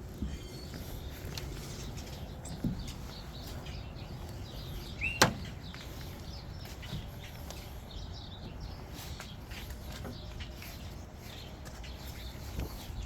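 Outdoor ambience: a steady low rumble with faint bird chirps, broken once about five seconds in by a single sharp click.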